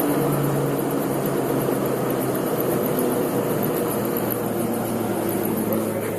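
A 500-kilowatt, 670-horsepower centrifugal mine ventilation fan running, a steady rush of moving air with a low, even hum under it.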